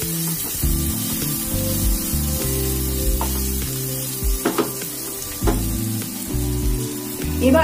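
Sliced onion and green chillies sizzling in hot ghee with spices, stirred continuously in the pan, with a few short clicks of the stirring against the pan around the middle. Soft background music with sustained low notes plays underneath.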